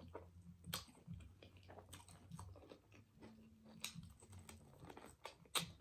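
A person biting and chewing a fried chicken wing dipped in ranch dressing: scattered crisp clicks of the bites and chewing, the sharpest about a second in, near four seconds and just before the end.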